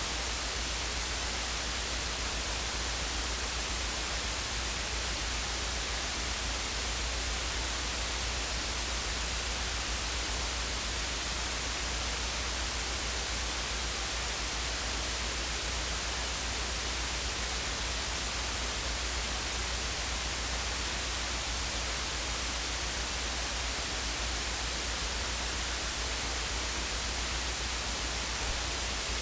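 Steady static hiss with a constant low hum underneath, unchanging throughout.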